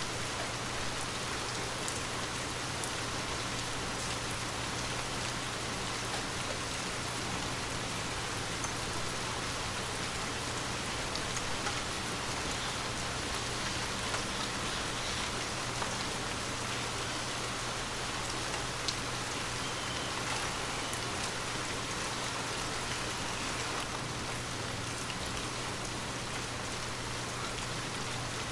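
Steady rain falling on a window and surfaces, an even patter with scattered individual drop ticks, and a faint steady low hum beneath it.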